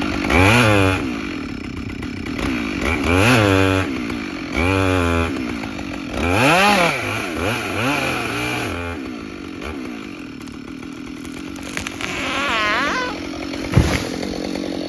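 Two-stroke chainsaw revved up and back down about six times, idling between the revs. A sharp knock comes near the end.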